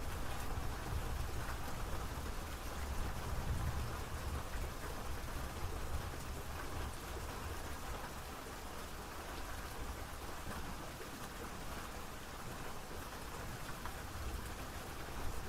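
Steady rain falling on a surface, an even hiss of drops with a low rumble underneath, easing slightly midway and picking up again near the end.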